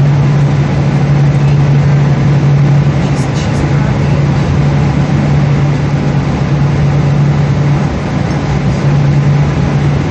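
Boeing 777 cabin noise in flight: a steady drone of the engines and rushing air, with one constant low hum. Two faint clicks about three seconds in.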